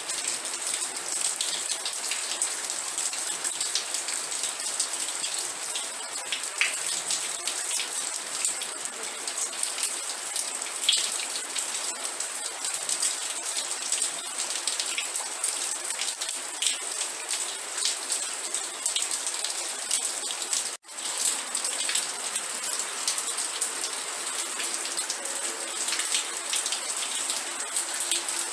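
Steady rain, a dense patter of drops hitting a surface. It cuts out for an instant about two-thirds of the way through.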